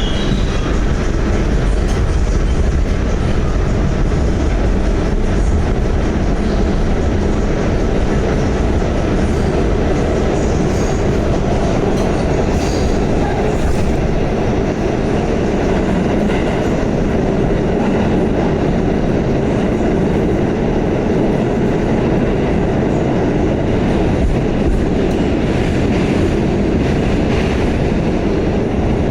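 Pullman-Standard R46 subway car running steadily between stations, heard from on board: an even, loud rumble of wheels on rail with faint clicks over the track.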